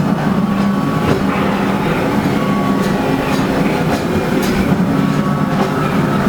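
Disneyland Railroad passenger car rolling along on a steam train with a steady rumble. Its wheels click over rail joints every half second to a second.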